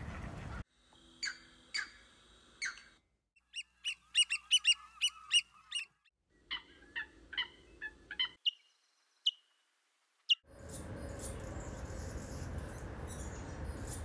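Recorded bird calls of several species, one after another with short gaps: three harsh calls, then a fast run of high chirping notes, another run of calls, and a few thin high whistles. About ten seconds in, a steady noise takes over.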